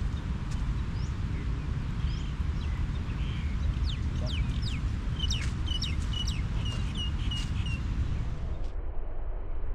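Birds calling: scattered quick rising and falling chirps, then a run of short rapid repeated notes in the middle, over a steady low rumble.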